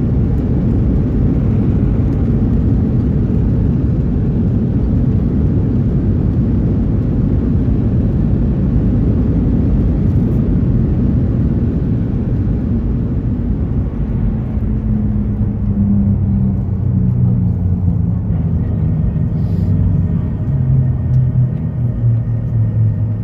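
Inside the cabin of a Boeing 737-900ER, a loud steady rumble of airframe and CFM56 engine noise. From about halfway through the rumble eases, and a low engine hum appears and falls in pitch toward the end.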